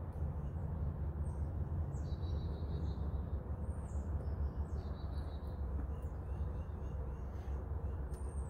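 Birds chirping, with two high trills of about a second each, over a steady low rumble.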